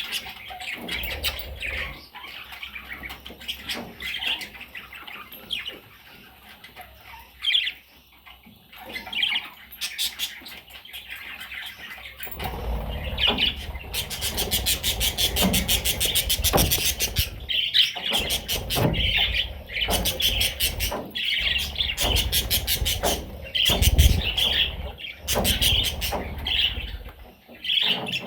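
Pet budgerigars chirping and chattering, with fast runs of sharp clicks and low thumps that get busier and louder about halfway through.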